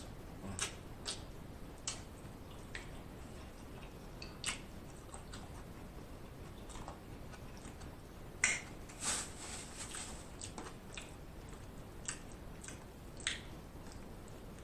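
Close-miked chewing of shrimp: scattered short mouth clicks and smacks, a second or more apart, the loudest about eight and a half seconds in.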